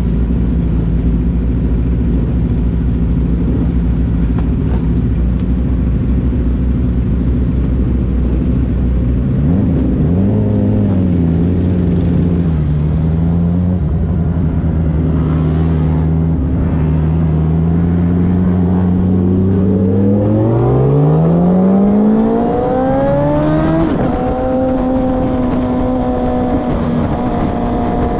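Sport motorcycle engine idling steadily, then pulling away about ten seconds in and rolling at low revs. Near the end the revs climb in a long rising note, drop at an upshift, and hold steady.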